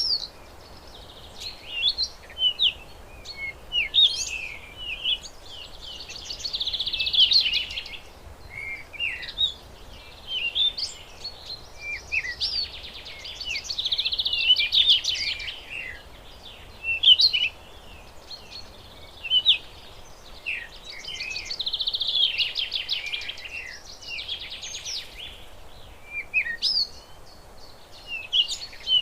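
Wild songbirds chirping and singing: many short, sharp chirps with a rapid trill returning about every seven to eight seconds.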